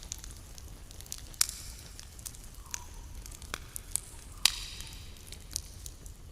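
Campfire crackling: irregular sharp pops and snaps, the two loudest about a second and a half in and about four and a half seconds in, over a steady low rumble.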